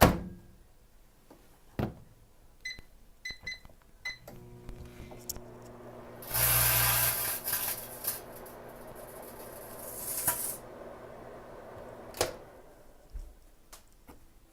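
Microwave oven: the door clicks shut, the keypad beeps four times, and it starts running with a steady hum. A couple of seconds in, a loud hissing rush lasts about four seconds, then it stops with a click near the end.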